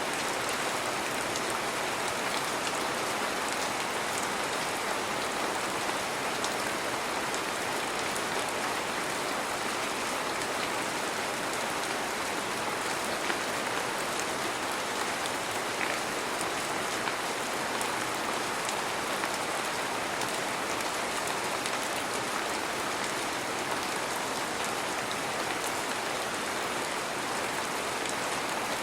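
Heavy rain falling steadily, a dense even hiss with fine scattered drop ticks.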